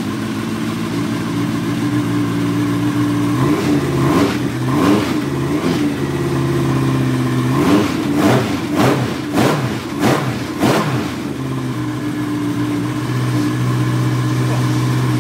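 Suzuki GSX1400's inline-four engine running on its first start after an engine swap, idling and then revved several times in the middle before settling back to idle. It runs with a rattle that the owner thinks comes from the cylinder head.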